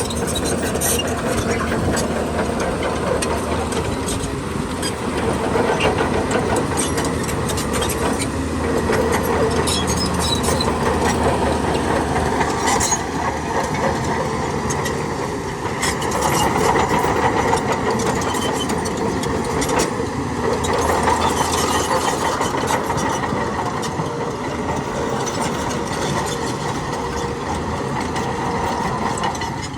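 Heavy diesel earthmoving machinery running steadily, with scattered clanks and knocks over the engine.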